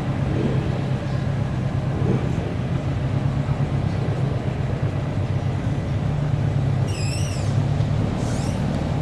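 Classic car engine running steadily with an even low drone. A brief warbling high-pitched call about seven seconds in.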